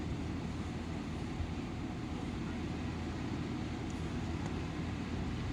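Steady low rumble with a faint hiss above it and no distinct events.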